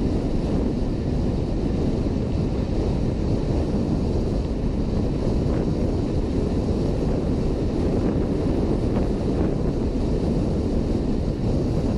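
Wind buffeting a helmet camera's microphone on a moving Honda PCX 125 scooter: a steady low rumble, with the scooter and road noise blended underneath.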